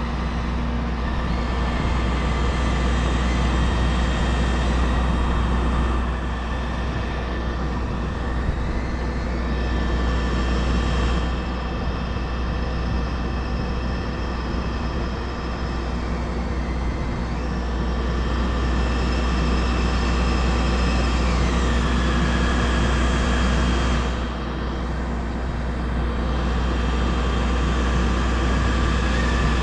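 Crane truck's engine running steadily, with a whine that rises and falls in pitch several times.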